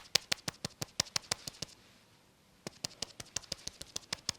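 Quick, light taps of a cushion foundation puff patted against the face, about seven taps a second, with a break of about a second near the middle.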